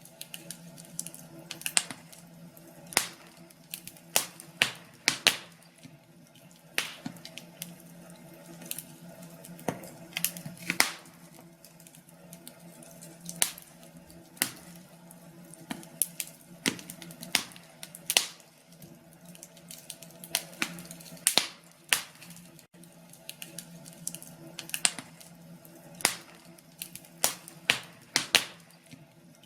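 Wood fire crackling, with irregular sharp pops and snaps one to several times a second over a faint steady low hum.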